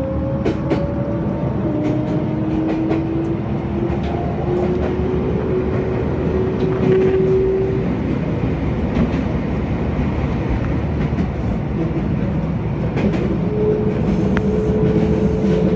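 Kobe Electric Railway train running, heard from inside the car: a steady rumble with faint clicks from the wheels over the rails. Through the first half a whine rises in pitch, and a new steady tone sets in near the end.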